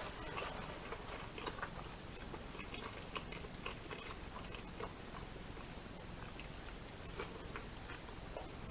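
A person chewing food close to the microphone, with soft, irregular mouth clicks throughout.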